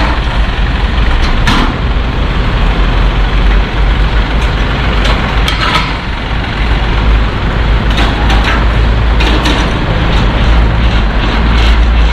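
DAF heavy truck's diesel engine running with a steady deep rumble, with a few short sharp noises over it.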